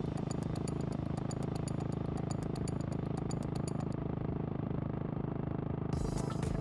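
Royal Enfield Classic 350's single-cylinder engine running steadily through a Red Rooster aftermarket exhaust, with a fast, light ticking over it for the first few seconds.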